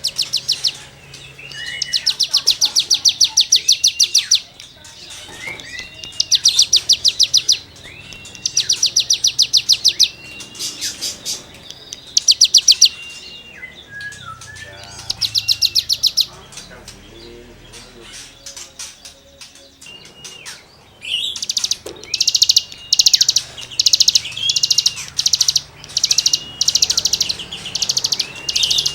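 Bar-winged prinia (ciblek gunung) singing. It gives bursts of very rapid, rasping trills, each a second or two long and broken by short rising whistled notes, with brief pauses between bursts. The song comes thicker and almost continuous in the last third.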